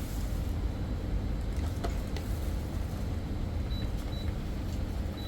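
A steady low engine drone, as of a motor vehicle running, holding an even level throughout, with a few faint clicks about two seconds in.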